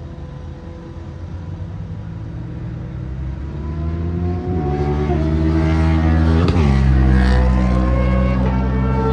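Motorcycle engine accelerating hard and shifting up: the engine note climbs, drops sharply twice at the gear changes, and gets louder.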